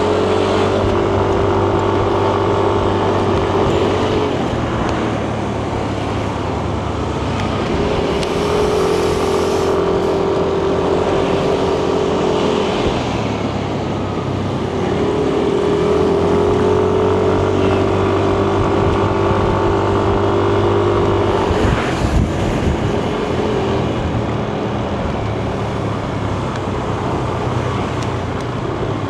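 Yamaha Nmax 155 scooter's single-cylinder engine running under way, its note rising and holding steady on the throttle in three long stretches and easing off between them, over steady wind and road noise. A short knock sounds once, a little past two-thirds of the way through.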